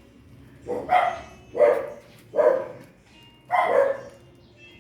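Dog barking repeatedly, about one loud bark a second, with four or five barks.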